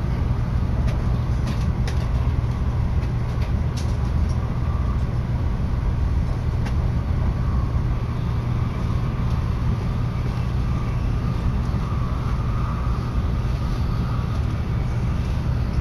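Steady low rumble and rush of a Tokaido Shinkansen bullet train running at speed, heard from inside the passenger cabin.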